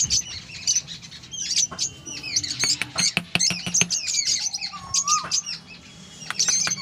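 Small birds chirping and twittering in quick, repeated calls, with a short rising whistle about five seconds in. Light clicks and taps come in between, from small wooden sticks being handled and pushed into sand.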